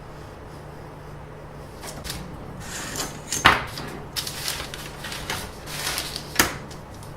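Handling noise from a flexible ruler being bent and handled against the body for a measurement: rustling and scattered clicks, with two sharper knocks about three and a half and six and a half seconds in.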